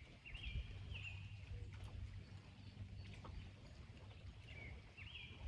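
A bird calling outdoors: clusters of short, high chirped notes, some rising and holding briefly before dropping, near the start and again near the end, over a low steady rumble of wind.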